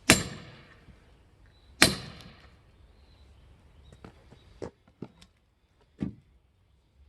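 Firewood being split: two hard strikes about a second and a half apart, each a sharp crack with a ringing tail. Lighter knocks and clatters of wood follow near the end.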